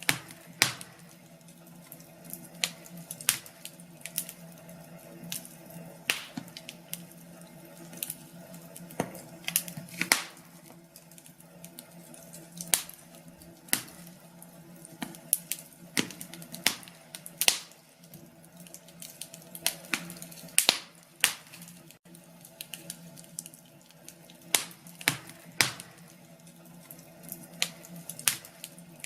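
Wood fire in a fireplace crackling: sharp, irregular pops and snaps, one or two a second, over a faint steady low hum.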